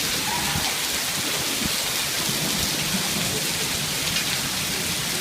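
Heavy rain falling steadily, with continuous rolling thunder underneath.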